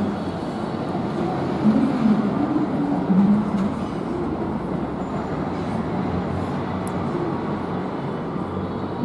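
A train running past on the line, a steady noise of wheels on rail. A few short wavering tones come over it in the first few seconds.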